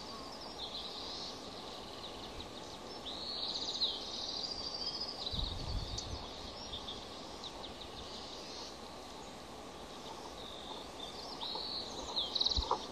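Several groups of short, high chirping bird calls, some in quick trilled runs, over a steady background hiss. A brief low rumble comes about halfway through.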